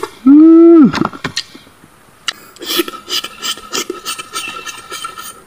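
A man gives one loud hum with a rising-then-falling pitch, then chews and crunches food with his mouth close to the microphone, scraping and crackling irregularly for several seconds.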